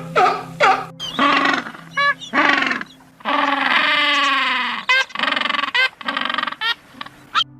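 Animal calls: a string of short pitched cries and one long drawn-out call with falling pitch about three seconds in, over background music.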